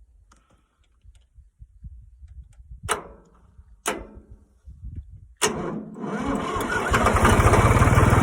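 Old Power King PK 500 tractor engine being started: uneven low turning-over with three sharp clicks about three, four and five and a half seconds in, then the engine catches and runs steadily and much louder.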